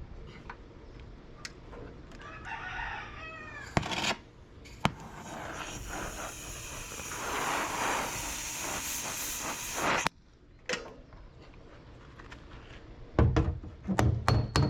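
A rooster crows once, starting about two seconds in. Then a loud steady hiss runs for about five seconds and cuts off suddenly, and a run of loud knocks starts near the end.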